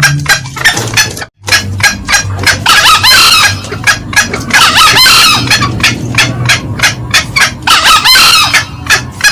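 Green junglefowl, male and female, calling: a fast, loud run of sharp cackling notes, about five a second, broken by a brief gap about a second in, with three longer, harsher crowing calls about 3, 5 and 8 seconds in.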